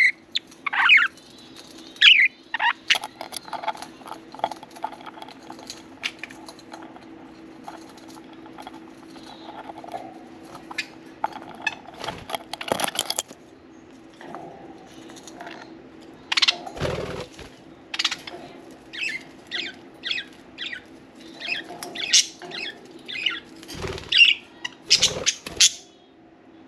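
Pet budgerigars (parakeets) chirping and chattering in short quick calls, with scattered sharp clicks among them and a steady low hum underneath.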